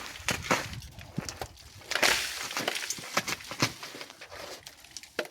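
Polystyrene foam insulation being broken and cut away by hand: irregular sharp cracks and clicks, with one longer rasp about two seconds in.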